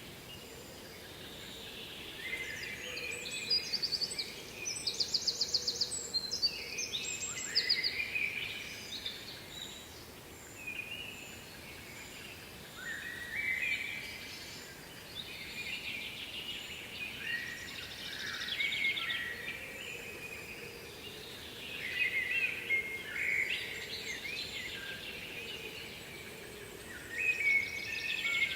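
Several songbirds singing, with fast trills and warbling phrases that come thickest a few seconds in and again later, over a faint steady rush of falling water. A faint high note repeats at an even pace throughout.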